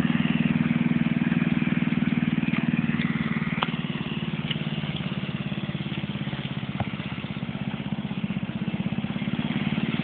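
Small tractor engine running steadily with an even, rapid firing beat.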